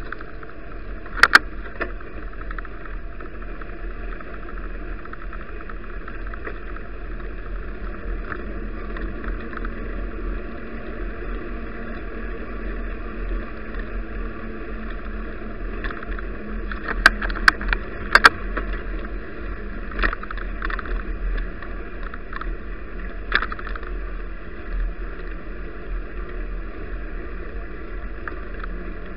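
Steady rumble of riding a bicycle, as picked up by a camera mounted on the bike, with several sharp knocks: a pair about a second in and a cluster around the middle.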